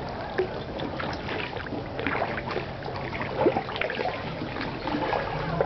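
Kayak paddles dipping into seawater, a run of short irregular splashes and drips over a faint low steady hum.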